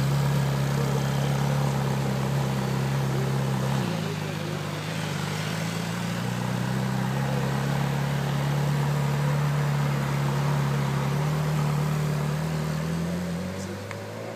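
Ferrari V8 engine running at low revs with a steady deep tone. It dips briefly about four seconds in, rises slowly near the end as the car pulls away, then fades.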